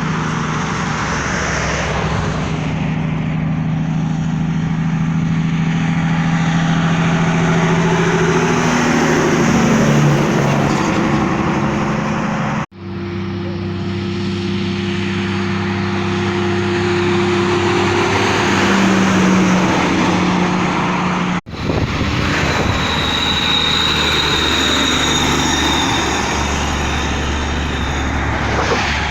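Heavy tractor-trailer truck diesel engines running, their pitch rising and falling as they rev. The sound breaks off abruptly twice, once about halfway through and again about two-thirds of the way in.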